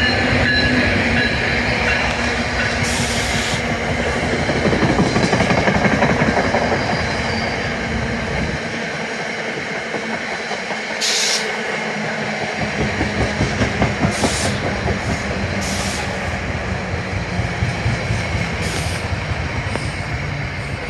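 NJ Transit passenger trains rolling past at close range, a continuous rumble of steel wheels on rail. There are several short high hisses, and in the second half a rhythmic clacking as the wheels cross rail joints.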